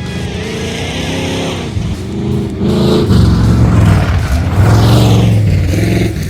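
Tough-truck engine revving hard, its pitch climbing and dropping several times as the throttle is worked.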